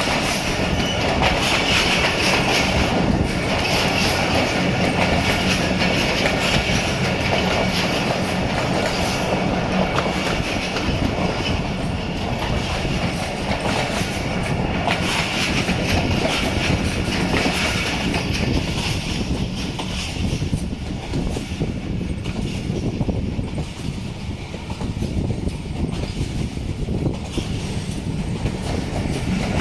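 Diesel-hauled passenger train running along the track, with a steady running noise of wheels on rail throughout.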